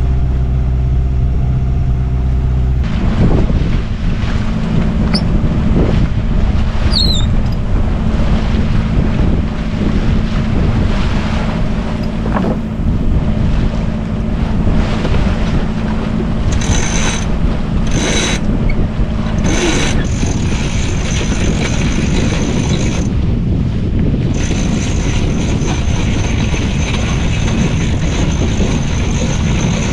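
Sailboat underway: a steady engine drone, then mostly wind buffeting the microphone over the boat's running noise.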